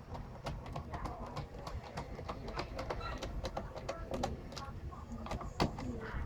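Irregular light clicks and taps, several a second, with one sharper knock near the end.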